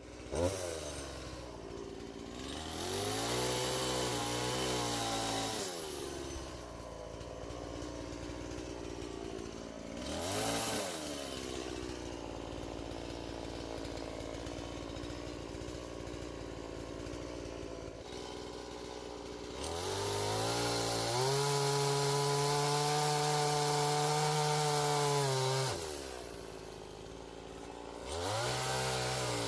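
Gas chainsaw idling, revved up in bursts: a few seconds of throttle, a short blip, then one long hold at high revs of about six seconds, and another rev near the end.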